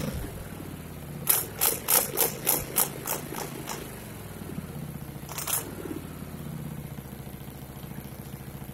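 2006 Honda Shadow's V-twin idling steadily through its stock, unmodified exhaust, a low even putter that the owner finds tame and calls a piece of shit. About a second in comes a quick run of sharp clicks, several a second, and one more click later.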